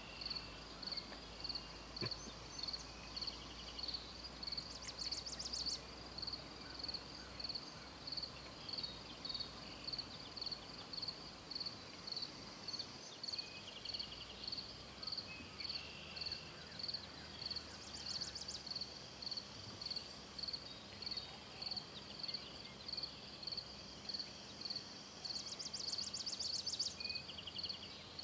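Outdoor insect chorus: one high chirp repeated evenly, about twice a second, without a break. Short, fast, higher-pitched trills cut in three times.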